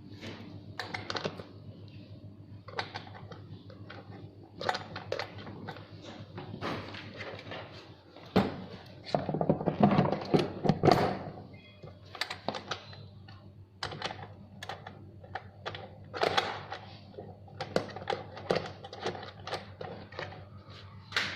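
Irregular clicks, taps and knocks of ride-on toy truck parts being handled and fitted together during assembly, with a denser run of knocking about halfway through.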